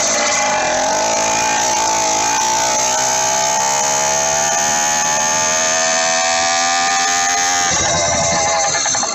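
80cc two-stroke motorized bicycle kit engine running loud through an open-ended stinger exhaust on its first start. Its revs climb slowly, then drop abruptly near the end.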